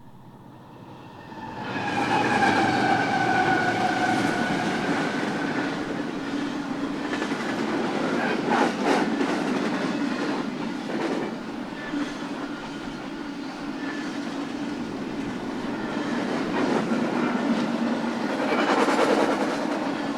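BNSF intermodal freight train rolling past: a steady rumble of wheels on rail with clicking from the rail joints. Near the start a high ringing tone slides slightly down in pitch and fades.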